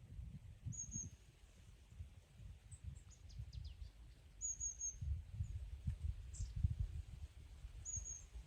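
A small bird chirping: short, high, thin calls three times, about a second in, halfway through and near the end, with a few fainter falling notes between. Under them a low, gusty rumble of wind on the microphone.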